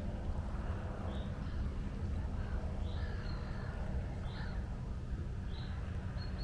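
Gulls calling, a string of short calls about once a second, over a steady low rumble.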